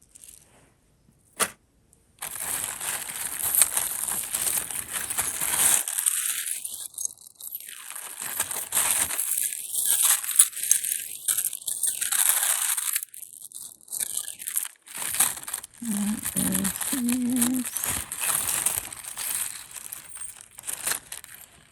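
Plastic wrapping crinkling and rustling as it is handled, in long uneven stretches with brief pauses.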